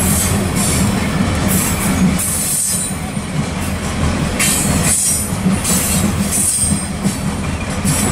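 Union Pacific coal train's loaded-train consist of coal gondola cars rolling past close by: a steady low rumble of steel wheels on rail, with high-pitched wheel noise coming and going about every second.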